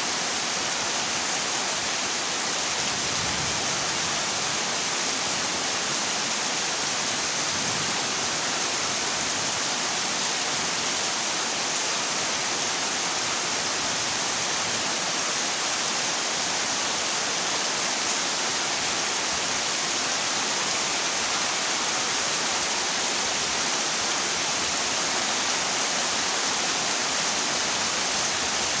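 Heavy rain falling steadily on a corrugated zinc roof, an even, unbroken hiss.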